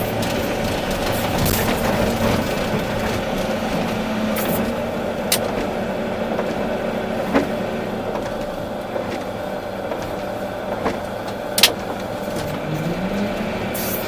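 Volvo EC380D excavator's diesel engine running steadily at work, with a few sharp knocks. Near the end the engine's pitch rises.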